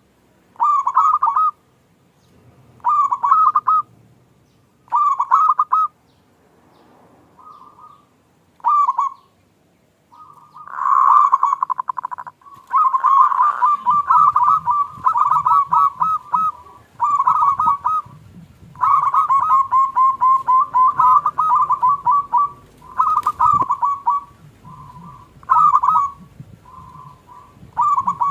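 Zebra dove (perkutut) cooing: short phrases of quick notes repeated about every two seconds, running into a near-continuous string of phrases from about halfway.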